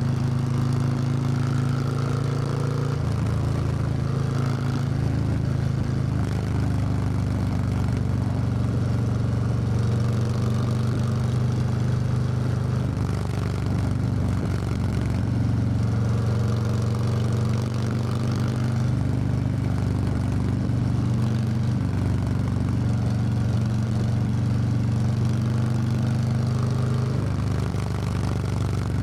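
Harley-Davidson Low Rider S V-twin engine running under way, heard from the rider's seat. Its note holds steady, with a few shifts in pitch as the throttle or gear changes, over steady wind and road noise.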